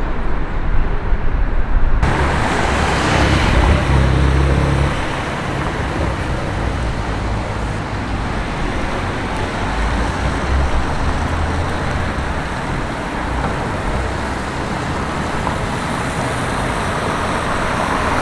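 City street traffic: cars running and passing, a low engine rumble loudest a few seconds in, under a steady haze of road noise. The sound changes abruptly about two seconds in.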